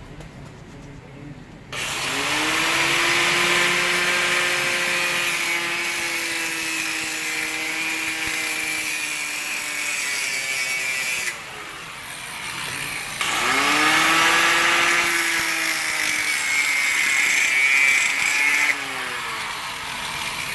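A handheld electric power tool cutting through a steel exhaust pipe to remove a catalytic converter, in two long runs with a short break between. Each run spins up, cuts with a loud hissing grind, and winds down.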